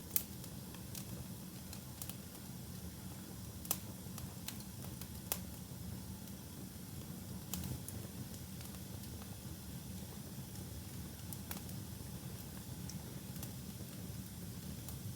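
Wood fire burning in a fireplace: a steady low rumble of the flames with scattered sharp pops and crackles, the loudest just after the start and about four and five seconds in.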